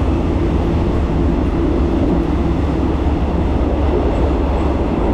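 Steady running rumble of a moving passenger train heard from inside the carriage.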